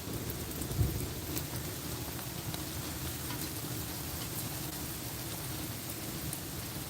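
Steady rain falling, with a few faint ticks and a brief low thump about a second in.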